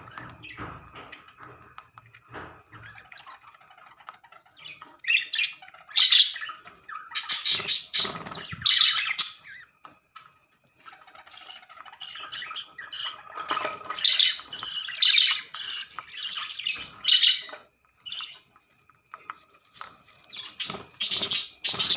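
Budgerigars squawking and chirping in irregular bursts, with quieter gaps in between.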